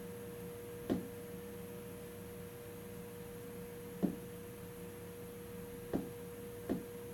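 A steady hum carrying a constant mid-pitched tone, broken four times by short knocks that drop quickly in pitch.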